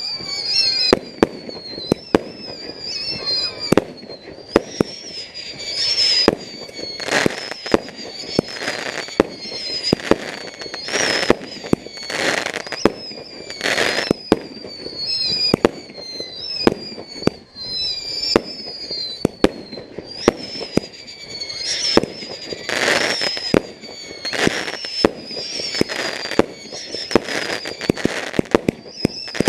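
Fireworks going off: many sharp bangs and crackles, with a run of short whistles that fall in pitch one after another and bursts of hissing.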